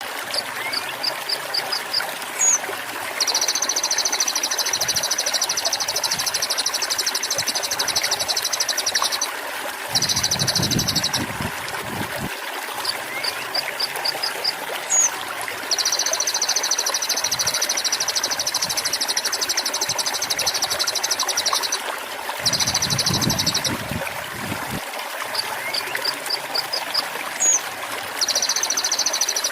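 Konin (kolibri ninja) song over continuously trickling water. A few quick high chirps and one sharp note are followed by a long, rapid high trill of about six seconds, then a shorter trill with a low rumble beneath it. The sequence repeats about every twelve seconds as a looped masteran recording.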